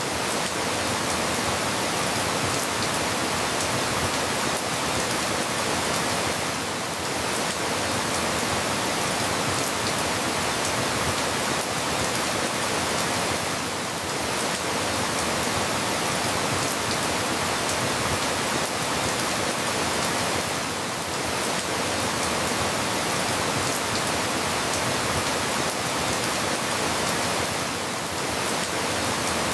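Steady rain falling, an even wash of noise with no separate drops standing out, dipping slightly in loudness about every seven seconds.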